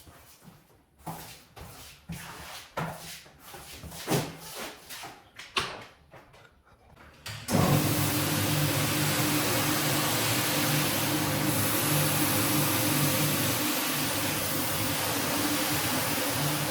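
Irregular scraping and brushing strokes on a wet rug, then, about seven and a half seconds in, a cleaning machine's motor switches on suddenly and runs steadily with a low hum and a loud hiss.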